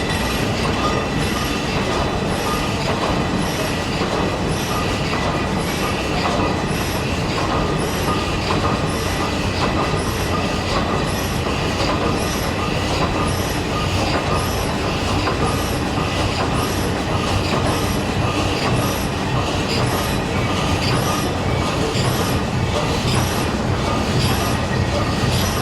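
A large stationary engine running, a steady mechanical clatter with a regular beat a little over once a second.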